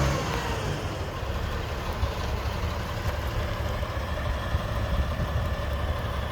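Motorcycle engine idling. A higher, steady engine note falls away just at the start and settles into a low, uneven idle rumble.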